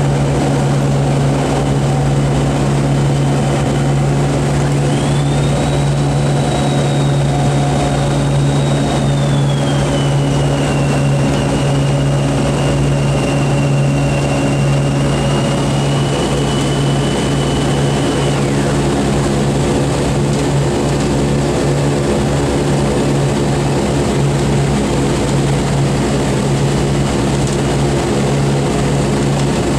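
Boeing B-29's four Wright R-3350 radial piston engines running steadily at low power, a deep even hum. A thin high whine joins about five seconds in, drops in pitch and stops about two-thirds of the way through.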